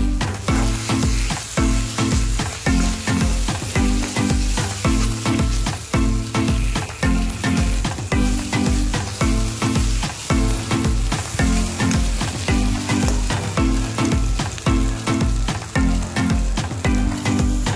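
Green chickpea paste sizzling in hot oil in a kadhai as a steel spoon stirs it, with background music keeping a steady beat underneath.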